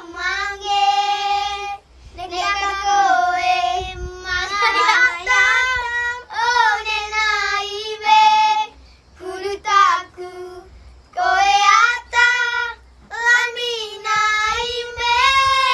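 A child's high voice singing a slow melody unaccompanied, in phrases of a few seconds with short breaks for breath between them.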